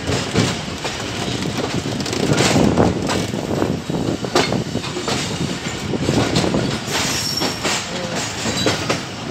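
Pakistan Railways passenger coach running on the rails, heard from its open doorway: a steady rumble with irregular clattering knocks from the wheels over rail joints.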